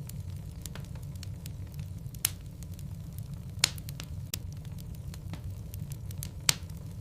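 Wood logs burning in a fireplace: a steady low rumble of flame with scattered sharp crackles and pops, three of them louder than the rest.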